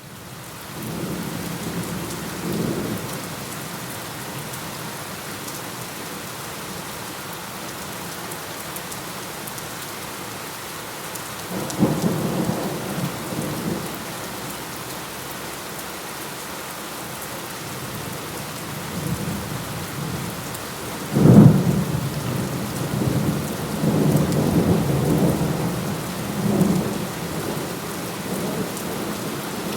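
Steady rain falling, with several low rolls of thunder; the loudest is a sharp thunderclap about two-thirds of the way through. The rain fades in from silence at the very start.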